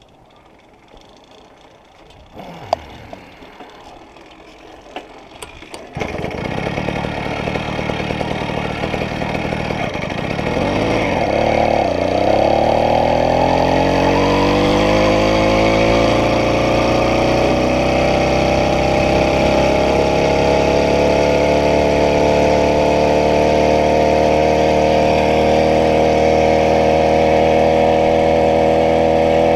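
80cc bicycle conversion engine, quiet at first with a few small knocks, then catching suddenly about six seconds in and running. Its speed climbs in a rising whine over a few seconds and then holds steady at high revs.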